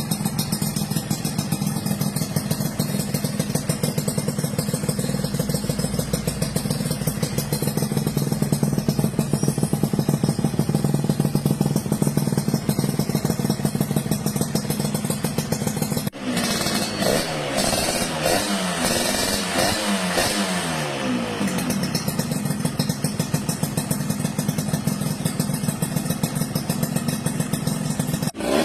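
Suzuki RGV 120 two-stroke single-cylinder motorcycle engine running through its exhaust, idling steadily with a fast rattling pulse. About halfway through, the throttle is blipped several times, with revs rising and falling, before it settles back to idle.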